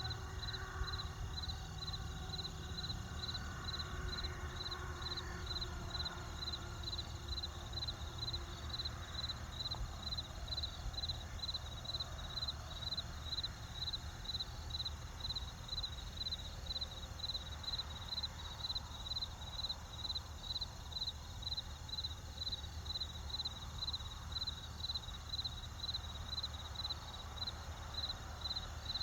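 A cricket chirping in an even, steady rhythm of about two high chirps a second, over a low steady rumble.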